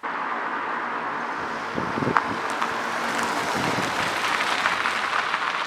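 A car driving by: a steady rush of tyre and engine noise that starts abruptly, with the engine note coming through more strongly around two seconds in.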